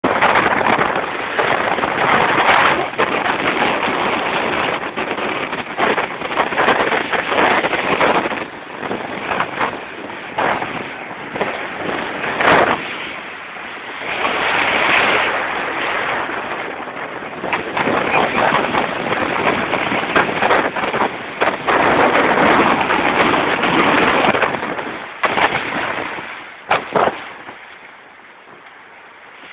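Sea waves breaking and washing up on a sandy beach, loud and surging, with wind buffeting the microphone and scattered sharp clicks. The noise dies down near the end.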